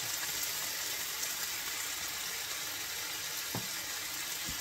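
Top sirloin steak sizzling steadily as it fries.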